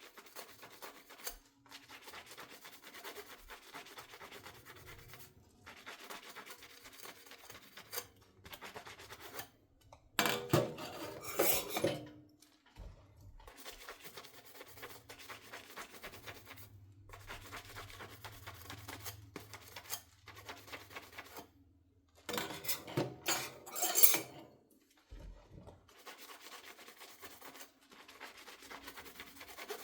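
Sponge scrubbing dishes by hand in stretches of a few seconds with brief pauses between them. Two louder spells of knocking and rubbing of the dishes come about ten seconds in and again after about twenty-two seconds.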